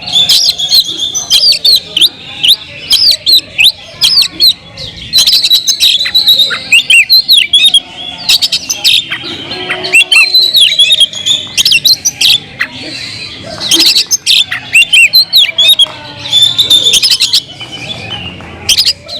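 Oriental magpie-robin (kacer) singing a fast, varied run of high chirps, whistles and sharp clicks without a break.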